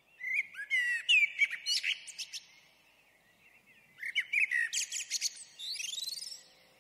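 A songbird singing two phrases of quick chirps and trills with a short pause between them. The second phrase ends in a fast run of notes rising in pitch.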